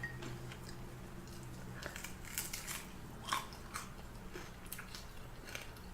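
Close-up chewing and biting of crispy fried chicken: scattered crisp crunches and mouth clicks, mostly in the second half.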